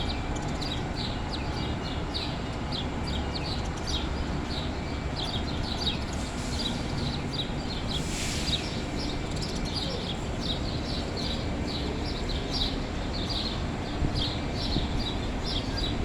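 A group of small birds chirping, many short high chirps following one another without pause, over a steady low background rumble. A brief hiss breaks in about eight seconds in.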